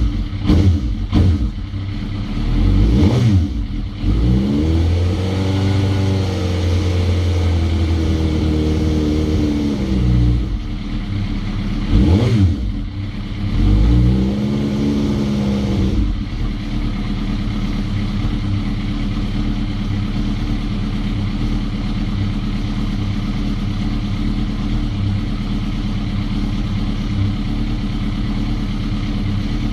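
Suzuki GSX-R motorcycle engine, freshly rebuilt after its valve stem seals failed, revved up and back down several times, then settling to a steady idle about halfway through.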